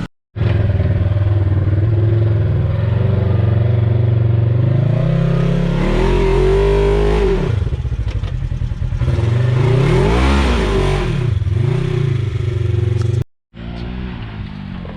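Side-by-side UTV engine revving under load, its pitch rising and falling several times as the throttle is worked. The sound cuts out briefly near the start and again about 13 seconds in.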